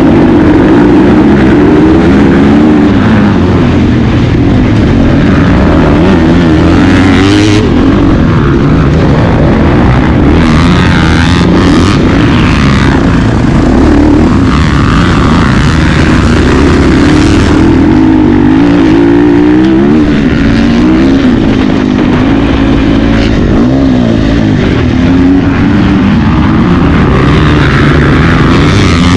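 A pack of 450-class motocross bikes racing, several engines loud at once, their pitches rising and falling as riders rev and shift.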